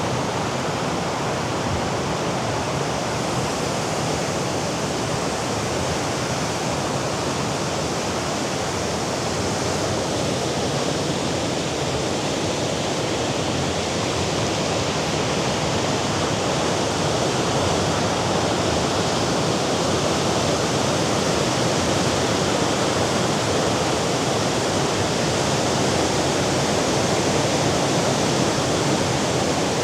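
Steady wash of Mediterranean surf breaking on the rocks below a sea cliff, mixed with wind, growing a little louder from about halfway.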